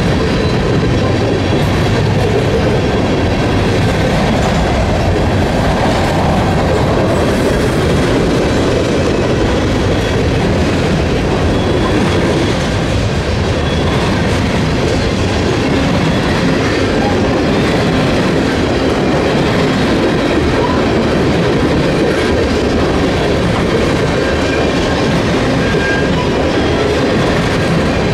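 Freight train of tank cars rolling past close by: steady wheel-on-rail noise from the passing cars, even and continuous.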